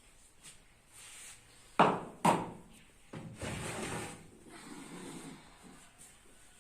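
Things being taken out of a refrigerator and put down. There are two sharp knocks about half a second apart around two seconds in, then a couple of seconds of shuffling and rattling as items are moved.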